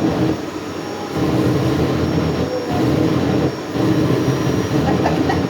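Vacuum cleaner motor running steadily, blowing air onto hair, with a steady whine and rush of air. The sound dips briefly a few times, the first dip lasting nearly a second.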